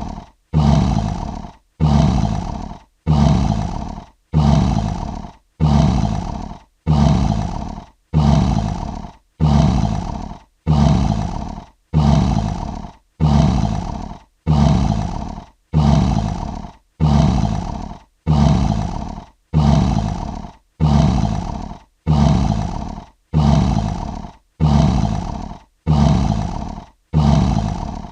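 Lion roar sound effect: one short roar looped over and over, about once a second, each starting loud and fading out with a brief silence between.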